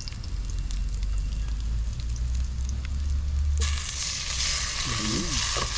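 Food frying in a hot pan: a low rumble, then about three and a half seconds in a loud sizzle starts suddenly, as of something added to the hot pan.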